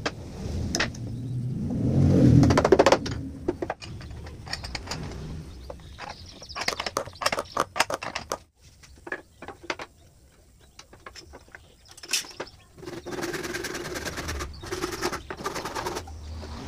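Workshop sounds of wooden parts being handled and worked: irregular knocks and clicks, a louder low thud about two seconds in, and a few seconds of steady mechanical noise near the end.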